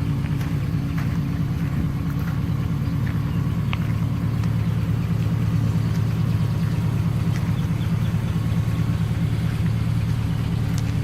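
A vehicle engine idling steadily: an even, low rumble that does not change.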